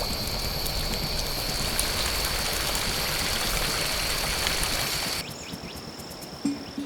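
Steady heavy rain with a steady high-pitched whine over it; the rain cuts off abruptly about five seconds in, leaving quieter outdoor ambience.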